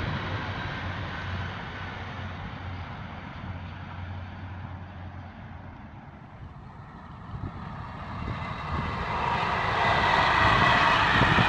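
Train noise by the line: a rumble that dies away over the first half, then builds again from about two-thirds of the way in to its loudest near the end as a train draws close.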